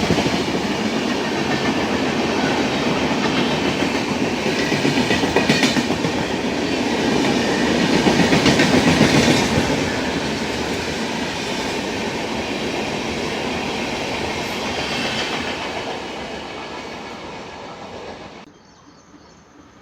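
Passenger train running through a station at speed, its wheels clattering over the rail joints, the sound fading as it goes by. It cuts off suddenly about 18 seconds in, leaving a much quieter background.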